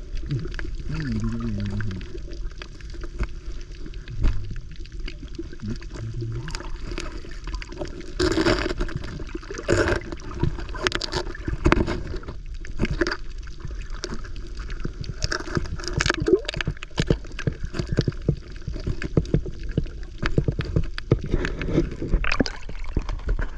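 Water sloshing and gurgling, broken by many short sharp clicks and crackles.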